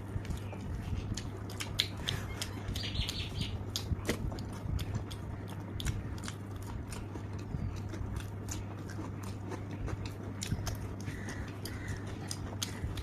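Close-up chewing of crunchy food: a person biting and crunching, with many irregular sharp mouth clicks and crackles.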